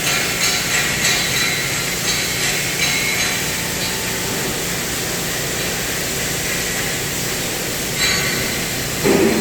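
CNC cutting machine at work: a steady hiss with a low hum, soft rhythmic ticking in the first few seconds, and a short knock near the end.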